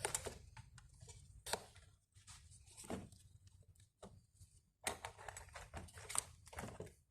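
Light, irregular clicks and knocks with some rustling as the plastic cabin dust filter cover is unclipped and the filter is pulled out of its housing.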